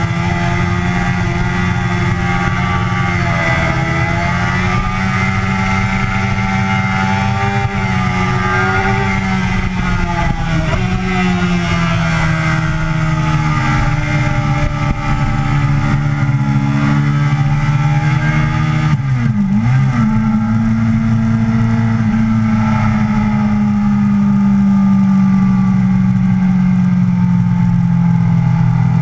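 Yamaha sport motorcycle's engine running hard at track speed, its pitch slowly easing down and climbing back with the throttle, with a brief sharp drop and jump in pitch about nineteen seconds in. A steady wind rush runs under it.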